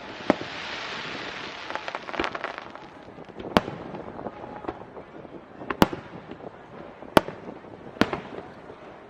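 Aerial firework shells bursting: a sharp bang just after the start, then four more over the next several seconds. A crackling hiss runs through the first two or so seconds.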